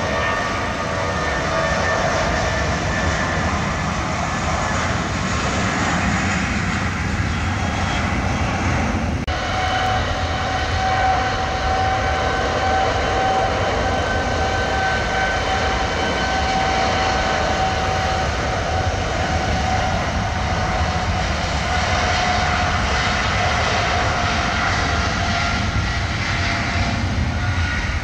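Jet airliner engines running, a steady loud rumble with a high held whine, as aircraft taxi in the take-off queue. The sound shifts briefly about nine seconds in, then carries on.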